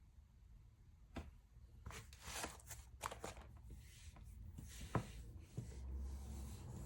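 Light rustling and handling noises with a few short clicks, the sharpest about five seconds in.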